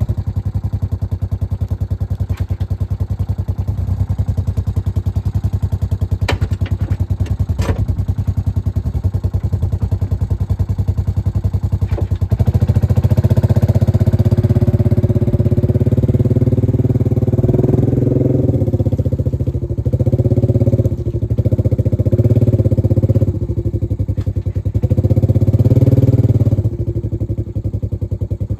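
An engine running steadily. About twelve seconds in it revs up and labours through several surges, then drops back to a lower speed near the end. A few sharp knocks come around six to eight seconds in.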